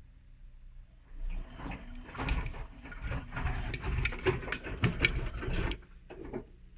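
Whirlpool washing machine drum turning in the main wash, the wet laundry tumbling with a low rumble and irregular knocks and clatter. It starts about a second in and stops just before the end, with one short turn after.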